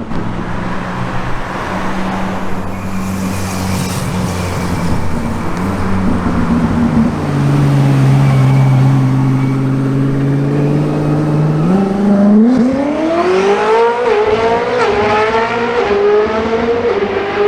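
Koenigsegg Jesko Attack's twin-turbo V8 running steadily at low revs, then accelerating hard about twelve seconds in, the engine note climbing in a run of quick steps as it shifts up.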